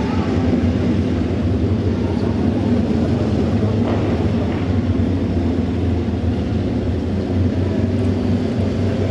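Auto race motorcycles' engines running together in a steady rumble.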